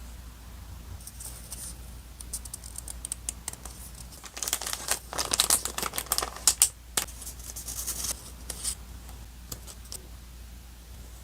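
Close-up paper and sticker handling: scattered light ticks and taps, with a louder stretch of paper rustling and crinkling in the middle.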